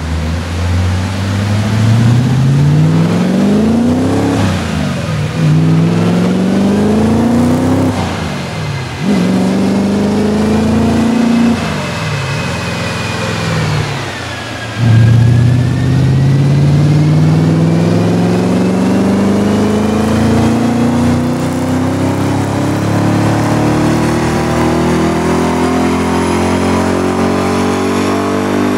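Audi B6 S4's 4.2-litre V8 through a Techtonics full exhaust (downpipes and cat-back), accelerating hard on a chassis dyno. The engine speed climbs and drops sharply four times, once per upshift, then rises in one long, steady pull in the last gear.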